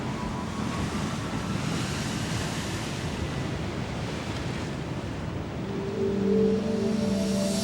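A steady rushing noise, like wind and water, with music coming back in about six seconds in.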